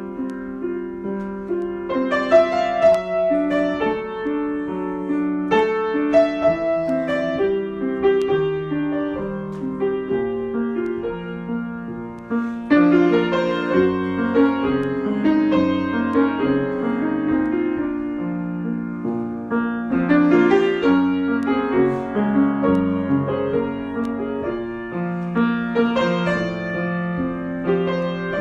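Solo piano improvisation: sustained chords with a melody on top, the playing swelling into new phrases at about two, thirteen and twenty seconds in.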